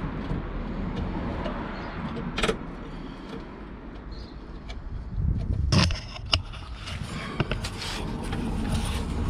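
Knocks and light metallic clatter from hands and tools working on rusted car bodywork, over a low steady rumble. The loudest is a thump about six seconds in, followed by a run of small clinks.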